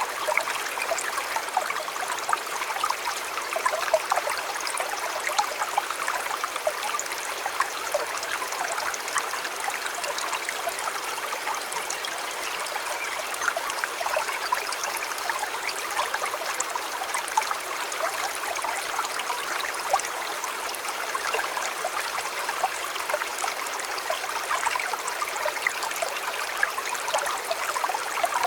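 River water flowing steadily over stones, a continuous rush with many small splashes and trickles and no pauses.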